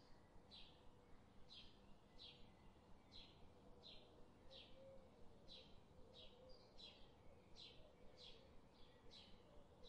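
Faint bird chirping: short, high, slightly falling chirps repeated at a steady pace, about three every two seconds, over a low steady hum.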